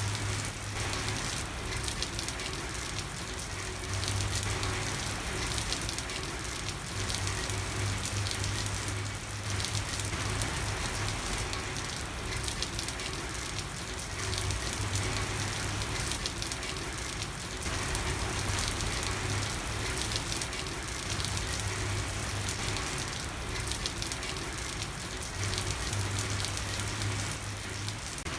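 Steady rain falling on a street, a dense, even patter. A low hum fades in and out every few seconds underneath it.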